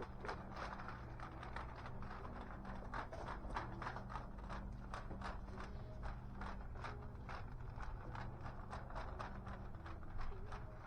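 Quick, regular footsteps on a hard floor, about three to four a second, over a steady low hum.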